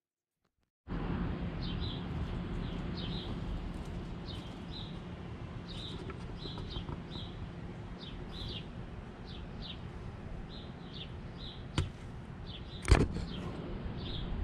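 Outdoor garden ambience that starts about a second in: a bird chirping over and over in short notes above a steady low background noise. Two sharp knocks come near the end, the second the loudest.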